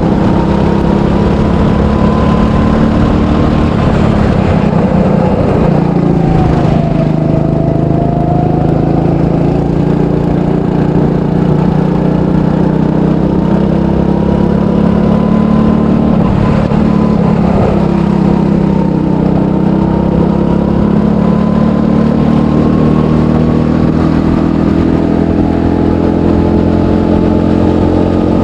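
300cc go-kart engine running continuously on a lap, heard close up from on board. Its pitch dips briefly about six seconds in, then rises slowly over the second half as the kart gathers speed.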